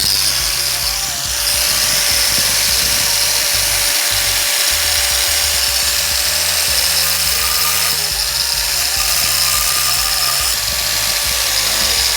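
Angle grinder running under load, cutting a large abrasive cutting disc down to a smaller size, a steady high-pitched grinding noise with a held whine throughout. Background music plays underneath.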